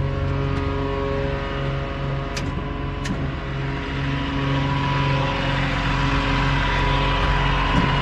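An engine running steadily, getting a little louder about four seconds in, with a thin whine that grows toward the end and a couple of light clicks near the middle.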